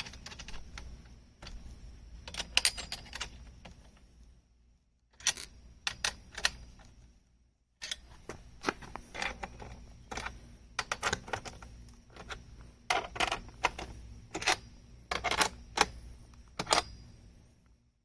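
Irregular light metallic clicks, clinks and rattles from the aluminum chainsaw-mill frame and its bolts and hardware being handled and adjusted by hand, in scattered clusters with two brief pauses.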